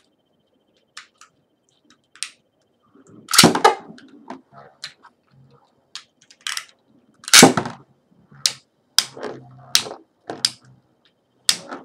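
Beyblade spinning tops, Tornado Eagle and Tornado L-Drago, battling: irregular sharp clacks as they strike each other, the two loudest hits about three and a half and seven and a half seconds in.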